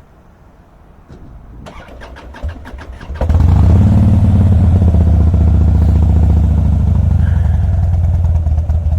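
2007 Harley-Davidson Softail Custom's Twin Cam 96 V-twin being started: a second and a half of starter cranking, then the engine catches about three seconds in and settles into a loud, steady idle.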